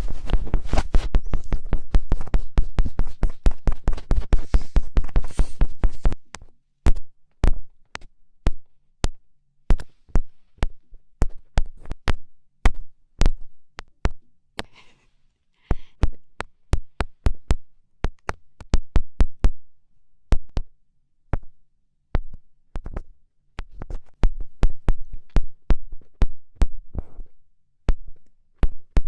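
Fingertips poking and tapping close to a microphone: a fast, dense run of taps for about the first six seconds, then single sharp taps and short quick flurries at irregular intervals.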